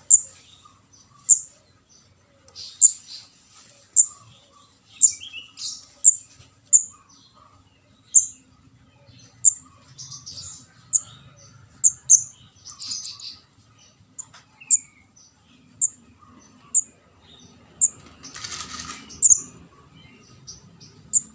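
Juvenile kemade jawa ('ndas abang') calling: short, sharp, very high chirps about once a second, with rougher, buzzier notes between them and a longer raspy burst near the end.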